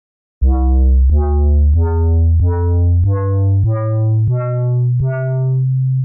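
Synthesized dub bass patch in Arturia Pigments playing eight notes that climb step by step. Each note starts with a fresh attack click, because in mono mode the envelope is re-triggered on every note.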